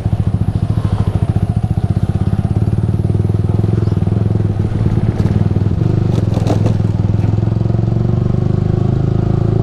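Yamaha R15 V3 single-cylinder engine running through an aftermarket Ronin Musashi exhaust at low road speed, pulsing at first and picking up slightly about three seconds in, with a few light clatters around the middle from the rough, broken road surface.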